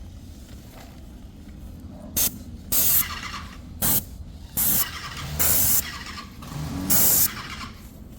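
Paint sprayer triggered in six short bursts of hiss, each under half a second, starting about two seconds in, over a low steady hum.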